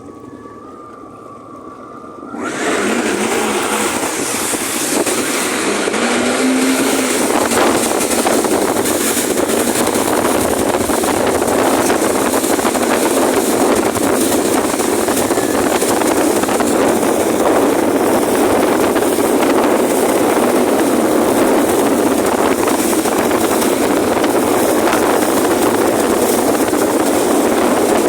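Jet ski underway: a loud, steady rush of wind and water noise over the engine. It jumps up about two and a half seconds in as the craft picks up speed.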